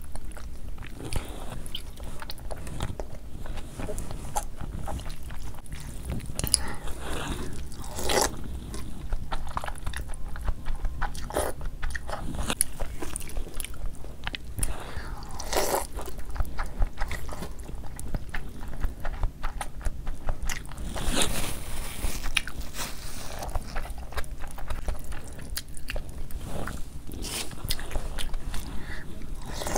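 Close-miked eating: chewing and biting of food, a run of many small clicks with a few louder crunches scattered through.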